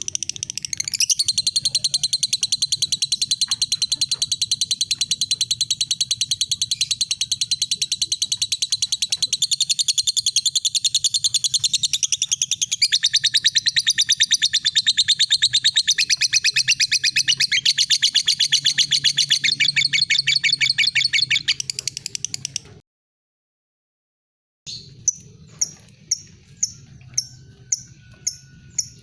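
Lovebird giving a long 'ngekek' chatter, a very fast, continuous run of shrill notes lasting about twenty seconds, which cuts off suddenly. After a brief silence, a lovebird 'ngetik' (ticking): single sharp, high ticks about twice a second.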